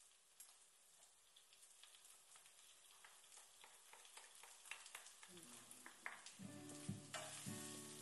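Faint sizzling and crackling of soy chunks and onion pieces frying in a pan while a spatula stirs them, the crackling growing louder. Music comes in about five seconds in.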